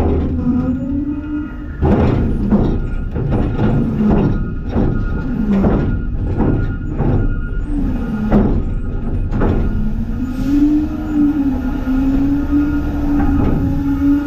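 Garbage truck running with a steady whine that dips and rises in pitch, while a quick series of bangs and clanks sounds from about two seconds in to just before ten seconds, as a load is dumped.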